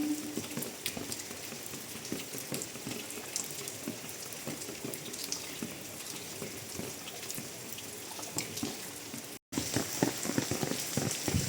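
Rain falling, with many close drops splashing and dripping. The sound cuts out briefly about nine and a half seconds in, and the drops come back louder.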